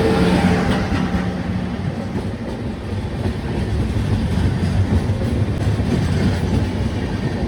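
Train wheels clattering over the rails with a steady rumble, plus a low drone that fades out about a second in.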